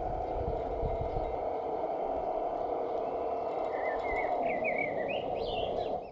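Steady mechanical hum of a radio-controlled model construction machine at work, with a few low knocks underneath. Birds chirp over it from about four seconds in, and everything fades out at the very end.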